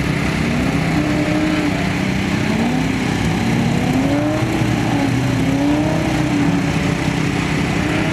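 An engine running, its pitch slowly wandering up and down, over heavy wind noise on the microphone.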